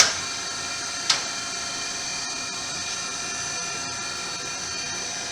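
Brown & Sharpe 814U Valumaster universal grinder running, a steady whine from the wheel spindle and its motors. Two sharp clicks sound at the start and about a second in.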